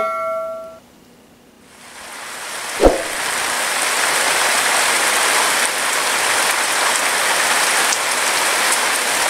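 Steady heavy rain falling, a continuous hiss that fades in about two seconds in, with a single dull thump about a second later. It opens on the ringing tail of a chime.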